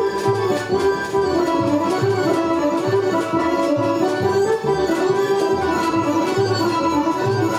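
Folk orchestra playing music for Šumadija dances: a winding melody over a steady, pulsing bass beat.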